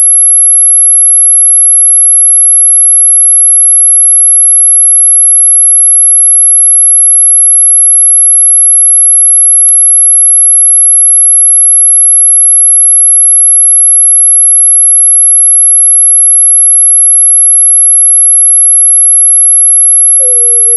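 A single very high-pitched, steady electronic tone held without a break, played as an anti-mosquito 'ultrasonic' repellent sound.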